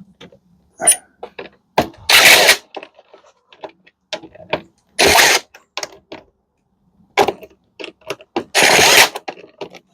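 Power drill/driver running in three short bursts of about half a second each, roughly two, five and eight and a half seconds in, backing out screws from a dishwasher panel. Scattered clicks and knocks of metal parts being handled come between the bursts.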